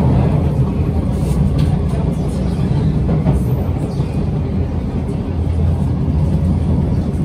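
Kawasaki C751B MRT train running between stations, heard from inside the carriage: a loud, steady low rumble of wheels on the rails and the moving car.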